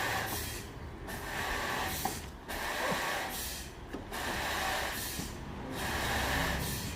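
Sawmill machinery cutting a large log, running with a steady noise that dips and returns in a regular cycle about every second and a half.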